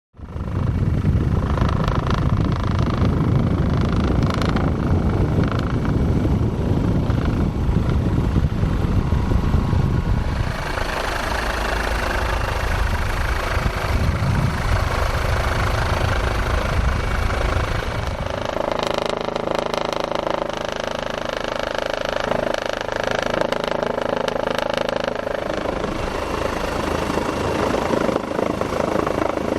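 Helicopter running: steady engine and rotor noise, its tone changing abruptly about ten and eighteen seconds in, with a heavy low rumble at first and a steady hum with a clear pitch later.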